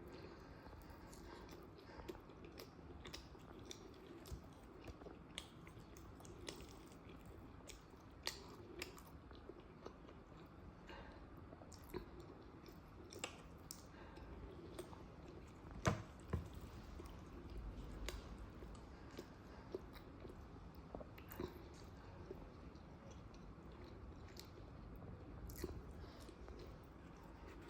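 A person chewing and eating, faint, with scattered small mouth clicks and bites. One louder click comes about halfway through.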